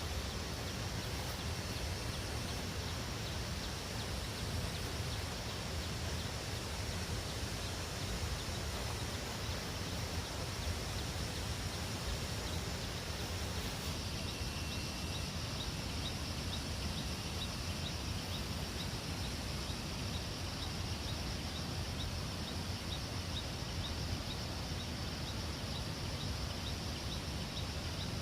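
Steady outdoor background noise, with a faint, high chirp repeating about twice a second from about halfway through.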